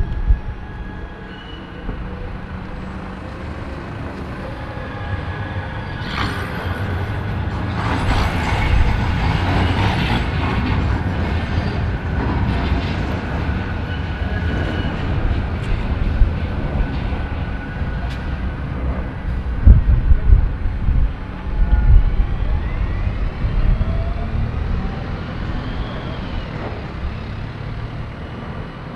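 City street traffic with heavy vehicles running past, swelling in the middle with a few heavy low thumps. Near the end comes a thin squeal that glides up and falls back in pitch.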